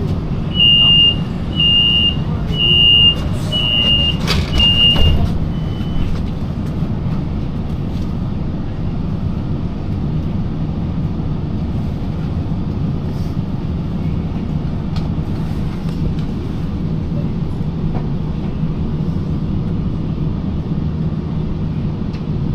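Inekon streetcar's door warning signal: five short, high, evenly spaced beeps, one a little under every second, over the tram's steady low hum. The hum carries on alone after the beeps stop.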